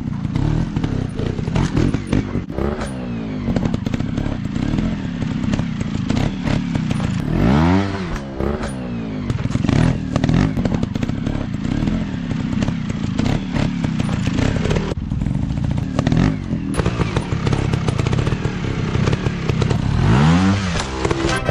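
Several dirt bike engines running and revving together, their pitches overlapping and rising and falling, with a sharp rev up and back down about a third of the way in and again near the end.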